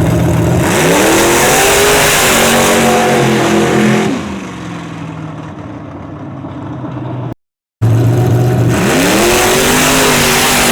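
Chevy S10 race truck's engine revving hard twice. Each time the pitch climbs and holds high for about three seconds with a loud hiss over it, then drops back to a lower, quieter run. A brief break in the sound comes between the two.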